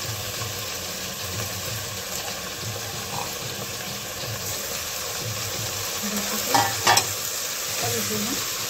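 Chopped green onions sizzling as they fry in hot oil in a pressure cooker, stirred with a metal spoon. Two sharp metal clinks come about two-thirds of the way in.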